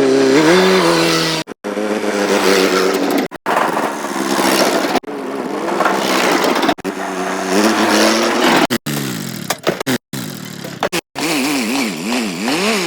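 Vehicle engines revving, their pitch stepping and gliding up and down, cut together as a string of short clips with abrupt breaks every second or two. Near the end the pitch wavers rapidly up and down.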